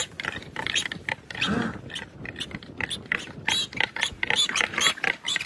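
Rapid, irregular clicking, with a short low call about a second and a half in.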